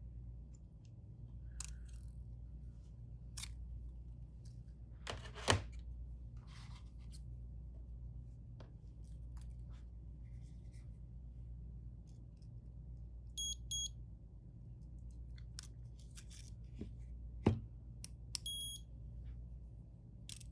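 Small clicks and taps of tools handling a phone during a screen repair, with two sharper knocks, over a steady low hum. Two short high electronic beeps sound about two-thirds of the way in and again near the end.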